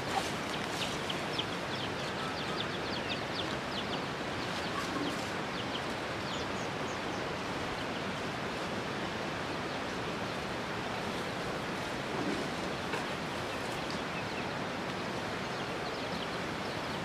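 Birds chirping in many short, high notes over the first half, then only now and then, over a steady rushing outdoor background noise.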